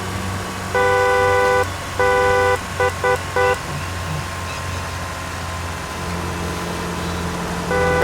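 Vehicle horn honking over a steady low engine hum: two long honks followed by three short quick ones, then another honk near the end.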